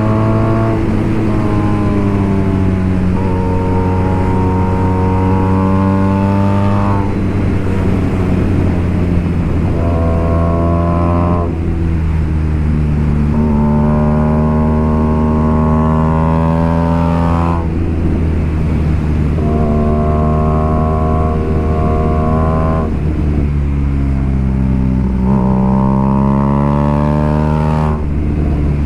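BMW R nineT Racer's boxer twin running through a full BOS exhaust with Boxercup muffler, pulling hard on the road: the exhaust note climbs in pitch as it accelerates and drops at each gear change, about five times.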